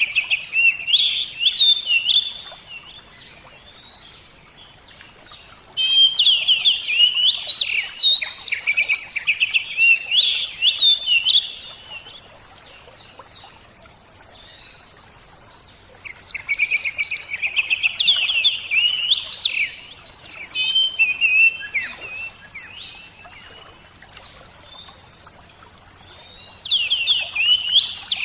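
Oriental magpie-robin (kacer) singing in long bursts of rapid, high whistles and chattering notes, with pauses of a few seconds between bursts. Faint steady running water lies underneath.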